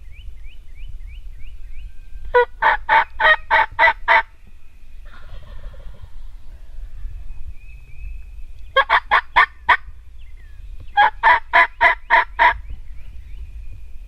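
A wild turkey gobbler gobbling three times, loud and close. Each gobble is a quick rattle of five to seven notes lasting one to two seconds, and they come a few seconds apart.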